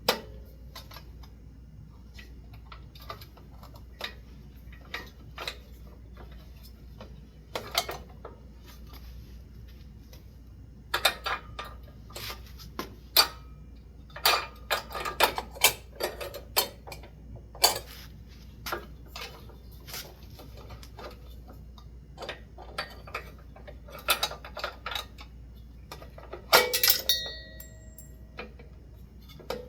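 Irregular metallic clicks, taps and clanks of hand work on a ceiling fan's mounting hardware. Near the end comes the loudest clatter, with a brief metallic ring, as the fan's hanging pin falls out.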